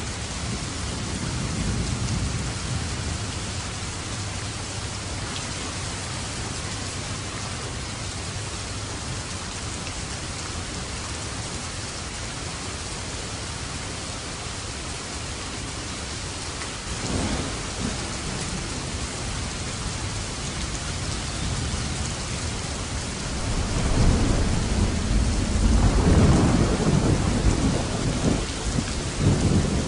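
Steady heavy rain with thunder: a short crack about halfway through, then a long, loud rumble of thunder near the end.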